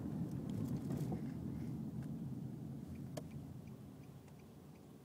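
A low rumble that slowly dies away over several seconds, heard from inside a car, with a few faint clicks about three seconds in.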